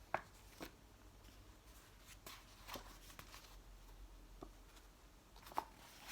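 Near silence in a small room, with a few faint, short rustles and clicks scattered through it, the loudest a little before the end.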